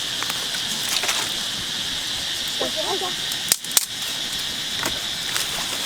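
Steady high-pitched insect drone, cicadas or crickets, with two sharp clicks in quick succession about three and a half seconds in.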